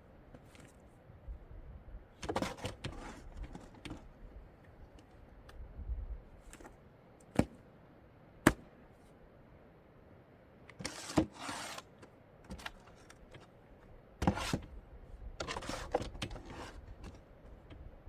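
Intermittent handling sounds of building work: short rustling and scraping bursts, with two sharp knocks about a second apart near the middle.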